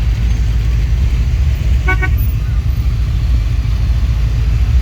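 A vehicle horn gives a short double toot about two seconds in, over a steady low rumble.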